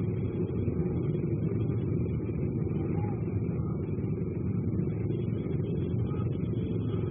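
Steady low rumble of a car engine running as the car slowly approaches, picked up by a CCTV camera's microphone with a constant hiss.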